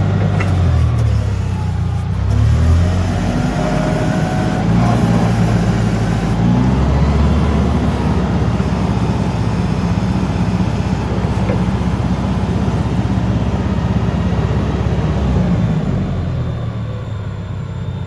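1998 Clark GCX-50 forklift's LPG engine running; its pitch rises and falls over the first few seconds, then holds steady, and drops a little near the end.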